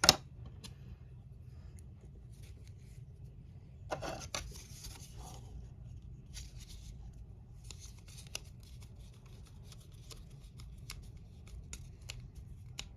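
Small plastic model parts being handled and fitted together, with scattered light clicks and rustles. There is a sharp click right at the start and a brief louder scrape about four seconds in.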